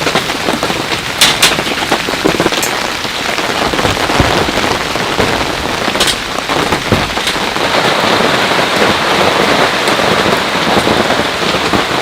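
Heavy rain falling steadily, with sharper drop hits now and then, the strongest about a second in and about six seconds in.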